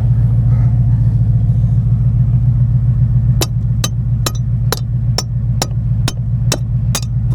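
A vehicle engine idling steadily. About halfway through come nine sharp, evenly spaced hammer blows, roughly two a second, knocking on a stuck part to free it.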